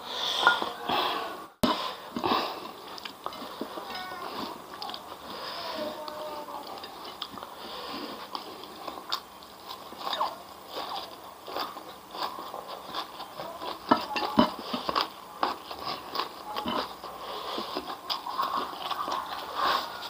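Close-up eating sounds: a person chewing and biting a mouthful of rice, fried grasshoppers and raw greens eaten by hand, with irregular wet mouth noises and small crunches throughout.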